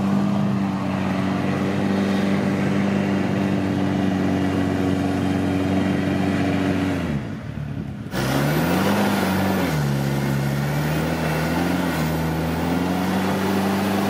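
Off-road 4x4's engine running at a steady speed, its pitch sinking and the sound dropping about seven seconds in, then picking back up with small rises and falls in revs.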